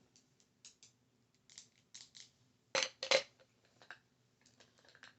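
Light clicks and taps from makeup brushes being handled, about a dozen short sharp sounds with two louder clacks close together just under three seconds in.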